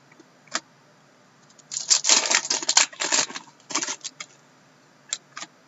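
Trading cards and their packaging being handled: a single click, then about two and a half seconds of crinkly rustling and clicking starting about two seconds in, and two light clicks near the end.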